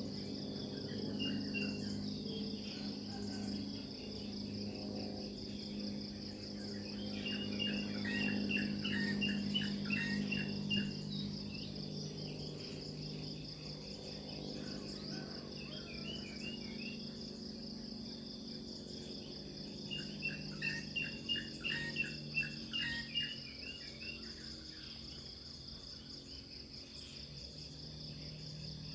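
Crickets trilling steadily, with birds chirping in quick runs of short notes three times, under a low steady hum.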